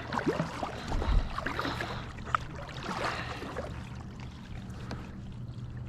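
Water lapping and splashing around a small boat on a river, with scattered small clicks and knocks over a steady low hum.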